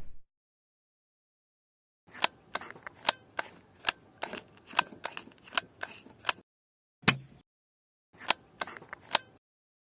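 About two seconds of silence, then an irregular series of sharp clicks and taps, two or three a second, with short pauses between groups.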